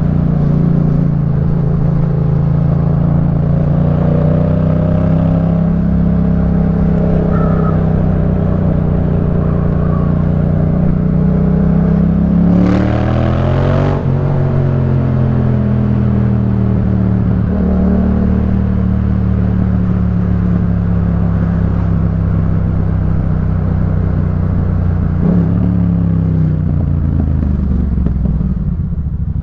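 Yamaha MT-07's parallel-twin engine through a Jeskap K4 full aftermarket exhaust, under way at a steady speed. Its pitch climbs about twelve seconds in, with a brief rush of noise, then settles lower. It drops off near the end as the bike slows.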